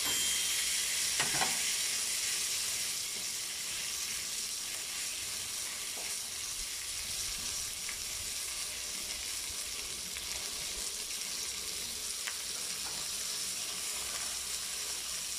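Piece of boneless chicken leg searing in a hot frying pan, with a steady sizzle of fat and juices that is a little louder in the first couple of seconds. A few faint clicks.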